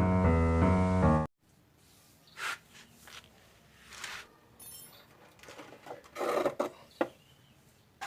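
Intro music cuts off about a second in, then quiet with a few short soft rustles and knocks and one faint, high, brief chirp near the middle, typical of a caged mountain prinia moving about.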